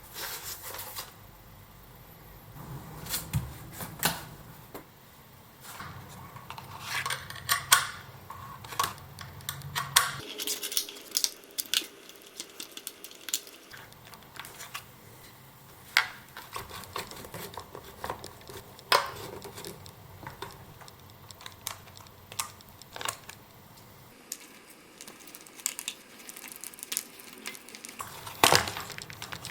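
Metal hand tools and parts clinking and knocking irregularly, as in wrench work on motorcycle hardware, with a few sharper, louder clanks.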